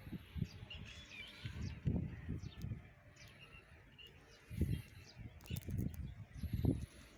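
Outdoor ambience with birds chirping, over irregular low thuds and rumbles that are the loudest sound, and a few sharp clicks about five and a half seconds in.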